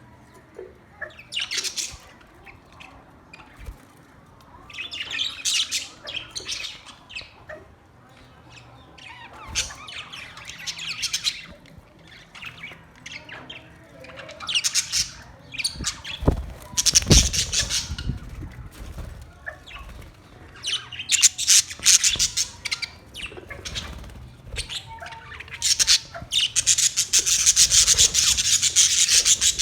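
Pet parrots chirping and chattering in repeated bursts of high, busy calls, which grow denser and louder near the end. There is a brief low thump about halfway through.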